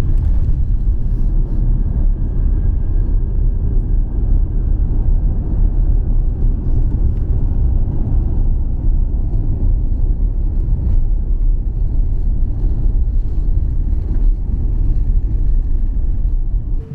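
Loud, steady low rumble of an Airbus A350-900 heard from inside the passenger cabin during landing. It cuts off suddenly near the end.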